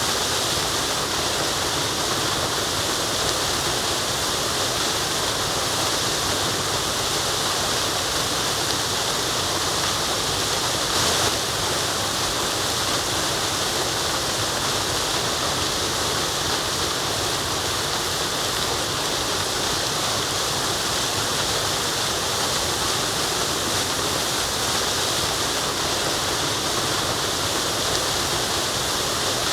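Waterfall: a steady, unbroken rush of falling water, with a slight surge about eleven seconds in.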